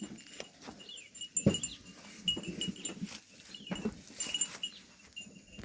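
Sheep bleating and milling about as they are brought into their pen, with short scattered calls and a sharp knock about one and a half seconds in.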